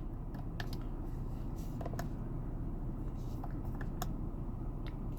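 A few faint, scattered clicks of steering-wheel menu buttons being pressed, over the low steady hum of the car idling, heard inside the cabin.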